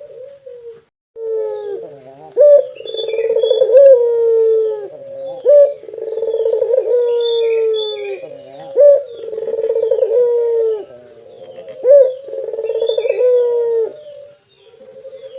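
A puter (Barbary dove) cooing over and over. Each phrase is a short, sharp upward note followed by a long, rolling coo that slowly falls in pitch, about four phrases roughly three seconds apart.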